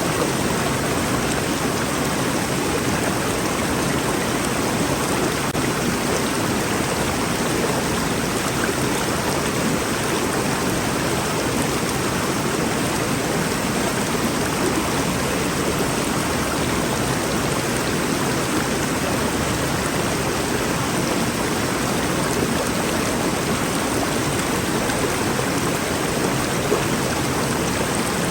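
Rainforest river flowing, a steady, even rush of water without breaks.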